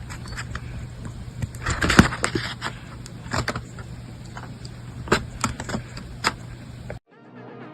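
Scattered clicks and knocks with a brief rustle about two seconds in, over a steady low hum. Electronic music starts abruptly near the end.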